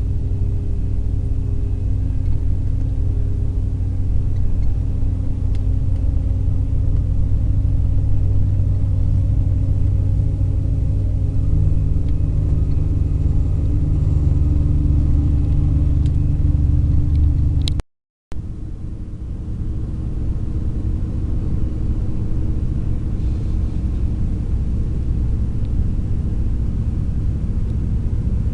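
Long-distance sleeper coach on the move: a steady low rumble of engine and road, the engine note rising a little about halfway through. All sound drops out for about half a second about two-thirds of the way in.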